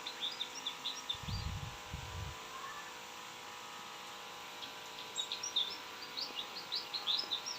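Small aviary birds chirping: quick runs of short, high chirps at the start and again through the second half. A brief low rumble comes about a second in, over a faint steady hum.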